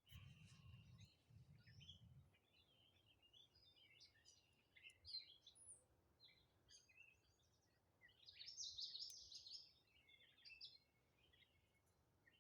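Several songbirds singing and chirping faintly, with a louder, denser stretch of song about eight seconds in.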